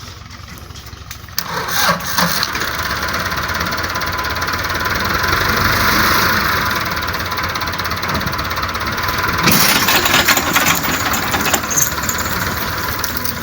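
Tractor engine revving hard under load as it pulls a heavy load of mulberry wood. The engine jumps to full throttle about a second and a half in, then stays loud and rough, rising again past the halfway point.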